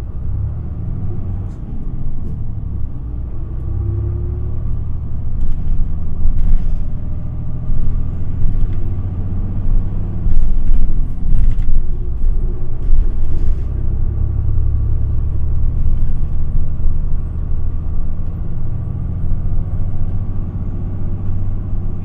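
Interior running sound of an Isuzu Erga city bus (QPG-LV234L3) under way: a deep diesel engine and road rumble that grows louder over the first ten seconds or so, then holds. Short rattles from the cabin come through a few times.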